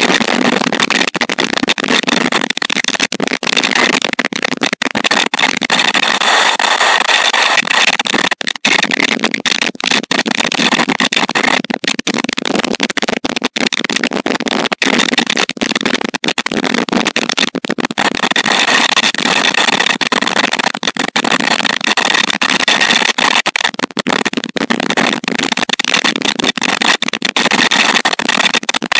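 Loud, steady storm noise, the rush of rain and wind, on the stork nest camera's microphone, flickering with brief dropouts.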